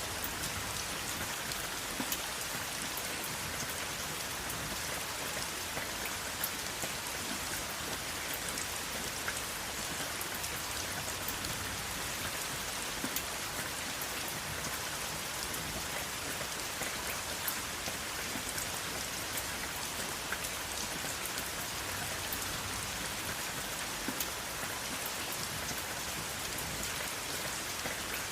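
Steady rainfall: a constant hiss of rain with many individual drops ticking and pattering on a surface throughout, no thunder.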